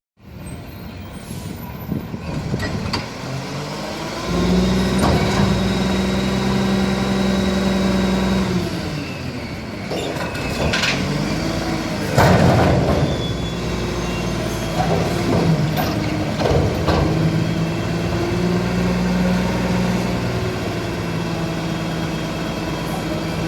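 Garbage truck engine revving up to drive the hydraulic packer. It holds at high revs for several seconds, drops back, then revs up and holds again. Several knocks and bangs come through the middle, the loudest about twelve seconds in.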